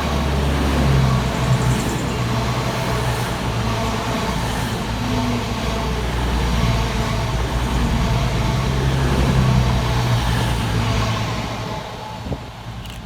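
Two coupled CrossCountry Class 220 Voyager diesel multiple units passing through the station, their underfloor Cummins diesel engines giving a low, steady drone that fades away near the end.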